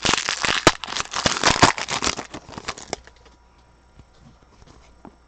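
Crinkling and rustling from trading cards and their packaging being handled, dense with sharp crackles for about the first three seconds, then only faint handling.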